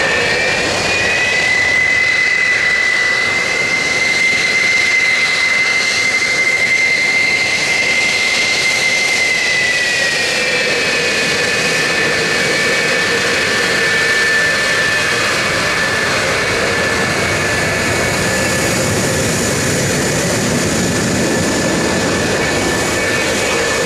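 Military jet engines running with a steady roar and a high turbine whine that steps up in pitch about a second in and settles back down about ten seconds in.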